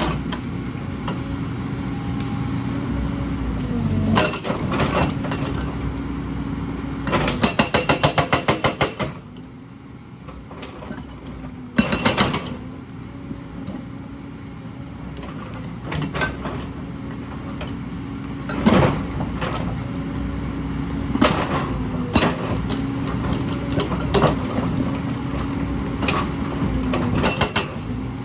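Hyundai excavator at work: the engine runs steadily, its pitch dipping briefly a few times as the load changes, under a dozen or so sharp metallic clanks and knocks. About seven seconds in comes a fast, even rattle of knocks lasting close to two seconds.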